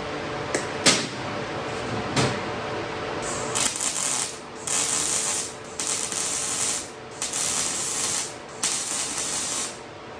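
Miller 251 MIG welder laying a run of short welds on thin galvanized steel tubing: about five bursts of crackling arc, each roughly a second long with short pauses between them, starting about three seconds in. A few sharp clicks come before the welding.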